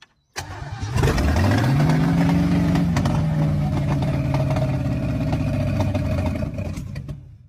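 Old car engine running: it picks up and revs up about a second in, then holds a steady fast idle with scattered light popping, before cutting off suddenly near the end.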